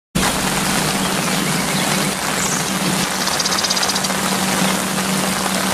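Heavy rain falling steadily on a road and trees, an even loud hiss, with a steady low hum underneath. A brief high trill sounds about three seconds in.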